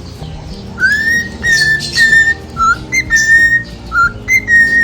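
Cockatiel whistling a run of clear notes. Most are held at one pitch, with short lower and higher notes between them, starting just under a second in.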